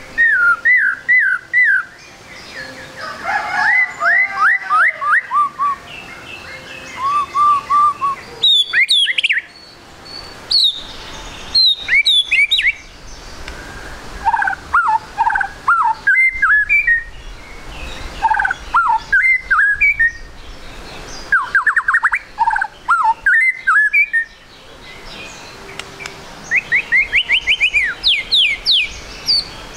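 White-rumped shama singing: short phrases of quick, sliding whistled notes with brief pauses between them, ending in a fast run of rising notes.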